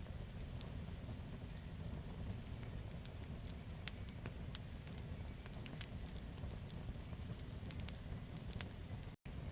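Campfire crackling: irregular sharp pops and snaps of burning wood over a steady low rumble of the flames. The sound drops out completely for a split second near the end.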